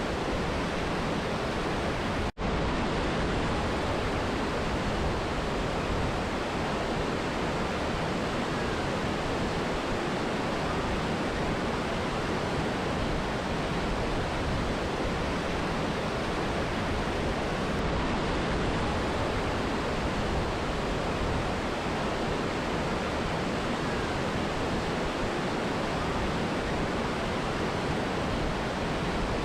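Steady, unbroken rush of a mountain river and waterfall, with a split-second gap about two seconds in.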